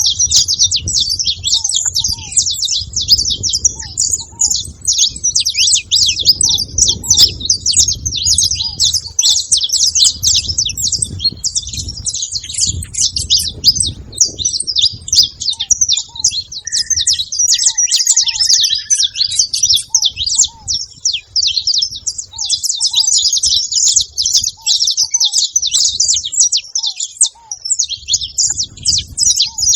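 Many saffron finches chirping and chattering together at a feeding spot: a dense, continuous high-pitched twittering that thins briefly about halfway through, when a short lower whistle is heard. A faint low rumble runs underneath.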